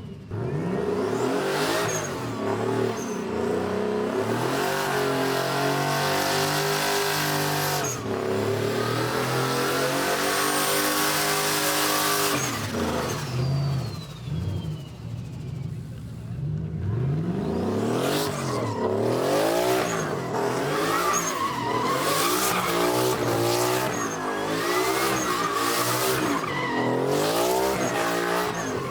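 A truck doing a burnout: its engine held at high revs with the tires spinning and squealing for about ten seconds. The engine then drops off and is revved up and down over and over, in quick repeated blips.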